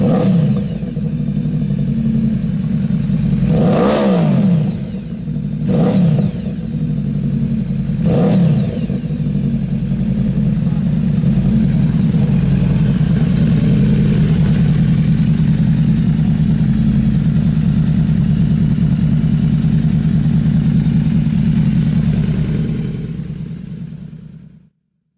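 Yamaha V-Max motorcycle's V4 engine running hard. It swells and falls in pitch three or four times in the first eight seconds, then holds a steady drone before fading out near the end.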